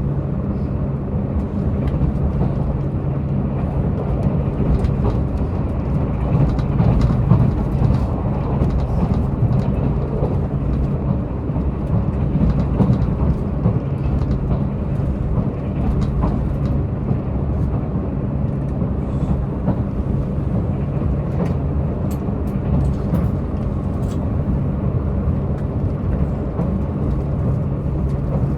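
Diesel multiple-unit express train at speed, heard inside the passenger car: the diesel engine runs with a steady low hum over the rumble of wheels on rail, with scattered light clicks.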